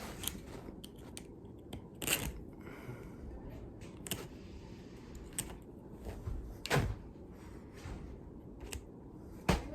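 Scattered knocks, clicks and rustles from handling drywall tools and self-adhesive mesh tape while a length of tape is measured and cut off, about seven sharp taps spread unevenly across the few seconds.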